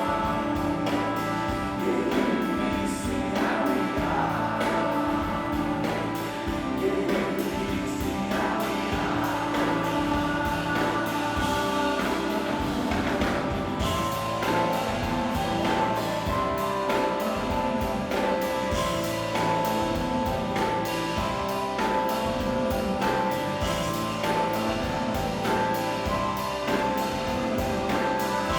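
A rock band playing live, with singing and a steady beat, in a concert-hall recording.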